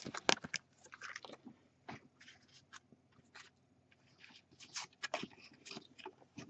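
Faint crinkling and rustling of a trading card pack wrapper being opened and the cards handled, in short irregular crackles.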